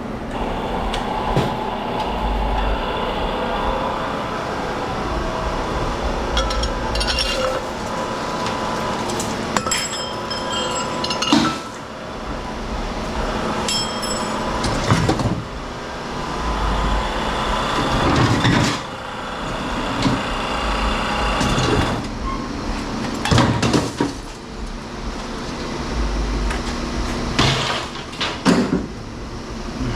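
Scrap metal clanking and clinking as pieces are handled and tossed into a bin, many separate ringing knocks over a steady hum.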